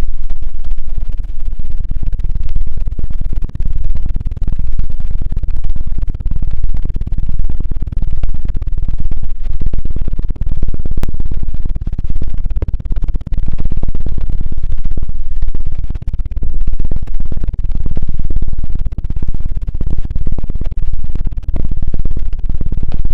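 'Helicopter' ear-cleaning ASMR: rapid, heavy thumping and rubbing directly on an ear microphone, a fast, deep flutter like a helicopter rotor. It comes in loud surges that dip every second or so.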